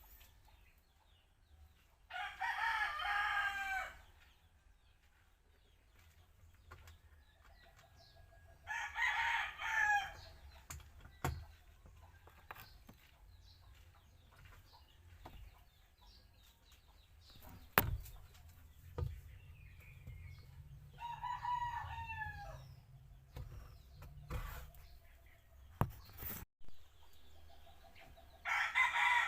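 A rooster crowing four times, each crow lasting about a second and a half and falling in pitch at the end. A few sharp knocks come in between the crows.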